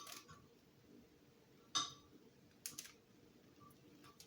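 A few sharp clicks and light clatter of small hard parts being handled and set down. The loudest comes a little under two seconds in, and two more follow close together about a second later.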